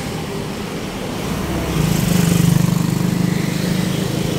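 A motor vehicle engine running in street traffic, its low hum growing louder about two seconds in, then easing off.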